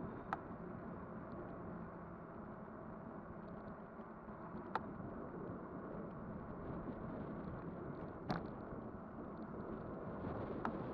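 Steady rumble of an electric bike on the move, tyre and wind noise with a faint hum, broken by four sharp clicks spread through.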